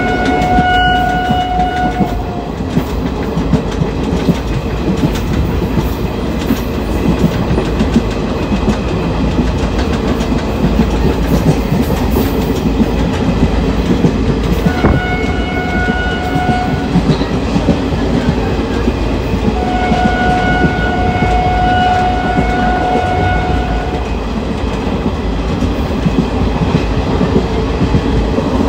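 An ICF passenger coach running on the track, a steady rumble with a constant clatter of wheels over rail joints. The train horn sounds three times: a blast ending about two seconds in, a short blast midway, and a longer blast of about four seconds later on.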